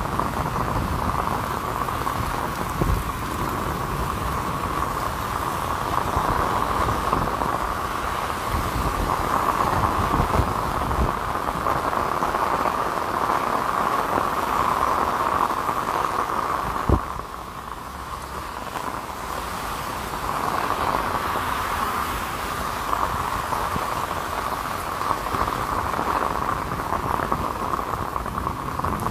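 Heavy rain drumming on an umbrella overhead, with cars hissing past on the waterlogged road. One sharp tap comes just past the middle, after which the rain is somewhat quieter for a few seconds.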